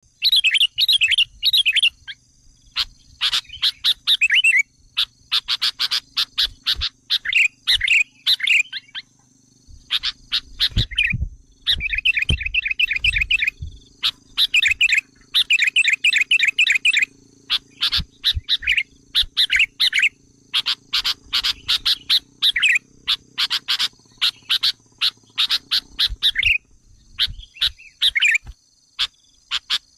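Sooty-headed bulbul lure calls: repeated bursts of sharp, rapid chirps and chattering trills with short pauses between them, the excited calling used to provoke wild bulbuls.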